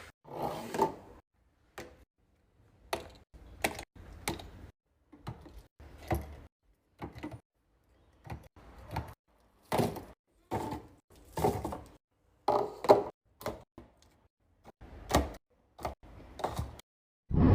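Containers and packages being handled and set down on fridge shelves: an irregular run of knocks, clicks and short rustles, ending in one heavier low thump.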